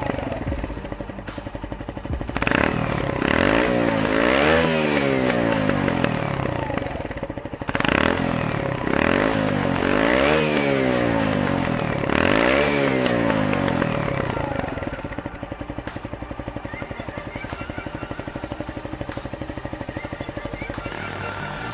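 Kreidler motorcycle engine with a homemade exhaust extension, revved up and let fall back several times in a row, then settling to a steady idle for the last several seconds.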